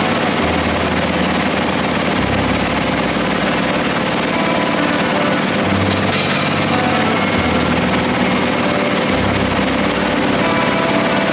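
Drilling-rig engine running steadily and loudly, with a dense mechanical noise whose low hum shifts in pitch every second or two.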